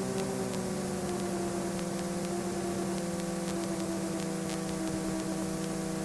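An ultralight aircraft's engine drones steadily in the cockpit, its pitch dropping slightly about a second in, with faint static clicks.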